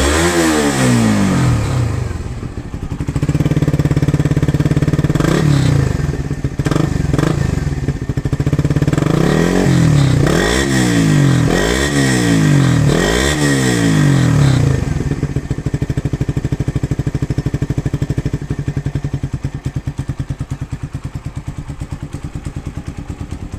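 Suzuki Satria FU 150 injection's single-cylinder four-stroke engine revved in a series of quick blips through a Satria FU Euro-type SCD muffler on a racing header. It settles to a steady idle for the last several seconds.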